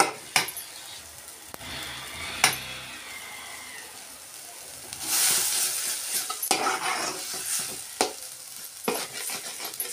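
Chana and palak saag frying in oil in a kadhai, sizzling while a metal spatula stirs it, knocking against the pan several times. The sizzle grows louder about halfway through.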